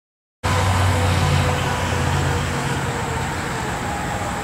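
Gas-engined RC hydrolift boat running at speed: a steady high engine whine that sinks slightly in pitch, over a loud low rumble that eases after about two seconds. The sound starts abruptly just under half a second in.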